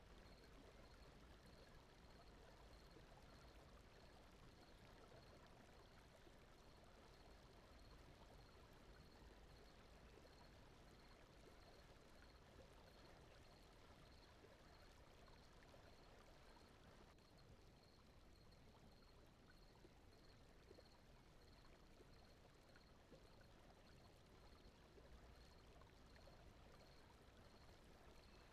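Near silence: a faint, steady rushing noise bed like a gentle stream, with a soft high tone pulsing evenly throughout.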